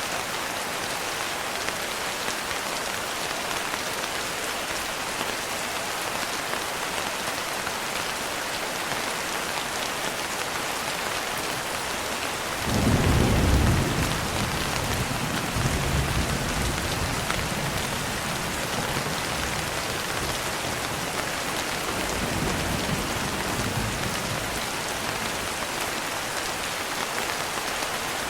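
Steady rain pattering on a window, with a clap of thunder about halfway through that rumbles on and fades over the next several seconds, with a softer roll of thunder later.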